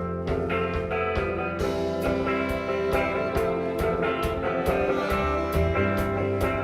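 A live band playing an instrumental break: guitar-led rock with a steady drum beat and sustained chords.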